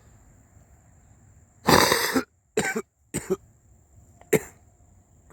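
A man coughing, one long cough followed by three short ones.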